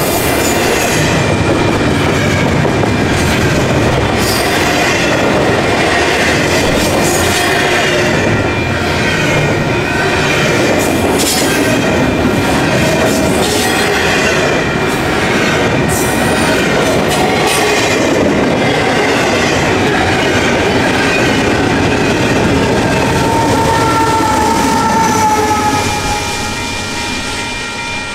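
Intermodal freight cars rolling past at speed: a steady wheel rumble with clicks over the rail joints, and thin squealing tones from the wheels. The sound drops a little about 26 s in.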